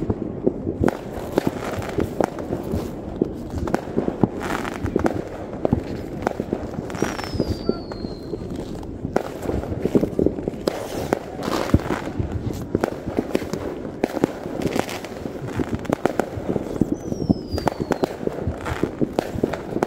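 Fireworks going off in a continuous rattle of bangs and crackling. Twice a high whistle falls in pitch.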